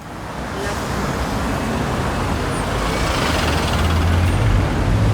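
A vehicle running: steady noise, with a low hum that grows stronger about three seconds in.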